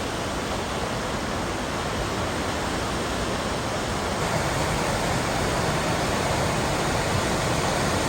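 Waterfall rushing: a steady, even wash of falling water that grows a little louder about halfway through.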